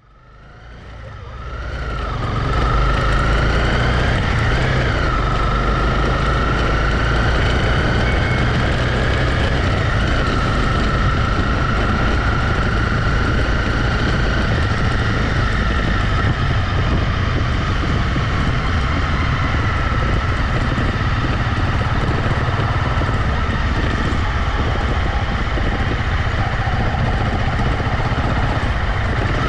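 Honda CB250R motorcycle's single-cylinder engine running as the bike is ridden, fading in over the first two seconds and then holding steady.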